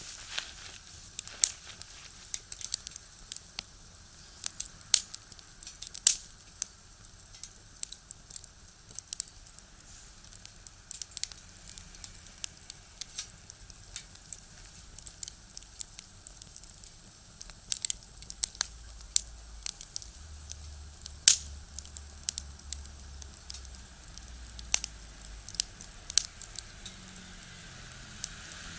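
Firewood burning in a small box stove, crackling with sharp, irregular pops. A low rumble of vehicles on a nearby road comes in about two-thirds of the way through.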